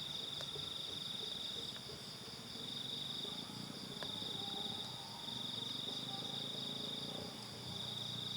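Insects, crickets or similar, trilling in a high, continuous chorus that pauses briefly a few times, over a low, indistinct background rumble.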